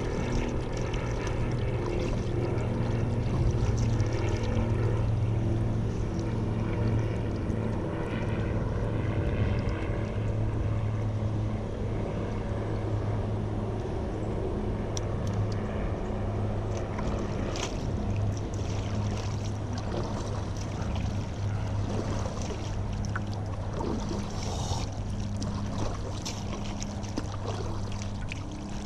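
A motor engine drones at a steady, unchanging pitch. Short water splashes from paddle strokes come in over it in the second half.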